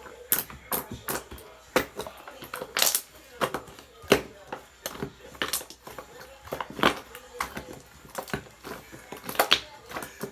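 Slime being squished and pressed by hand, giving irregular sharp clicks and pops of trapped air several times a second, with a longer crackle about three seconds in.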